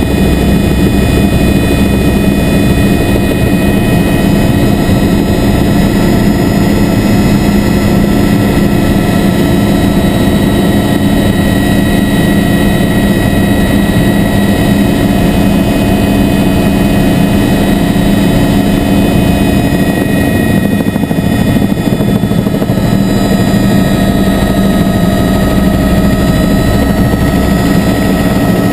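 Helicopter engine and rotor running steadily, heard from aboard: a loud, even drone with several steady whining tones on top.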